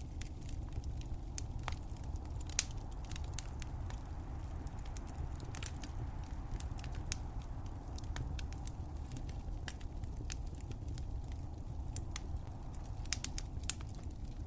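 Wood fire crackling: irregular sharp pops and snaps over a steady low rumble, with one louder pop a few seconds in.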